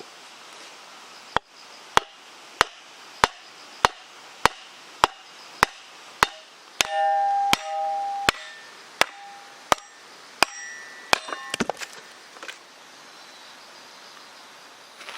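A hammer striking a log seated on a Kindling Cracker's cast-iron wedge, about one and a half blows a second and slowing slightly, splitting hardwood firewood. Two blows in the middle ring out with a metallic clang, and near the end the wood cracks apart with a short burst of crackles. A mountain stream rushes steadily underneath.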